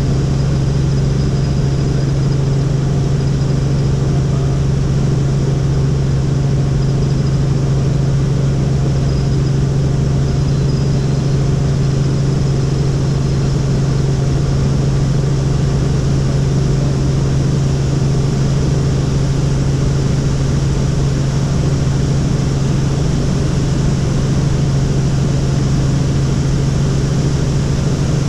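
Helicopter's turbine engine and rotor running steadily, a constant loud hum with a strong low tone that does not change.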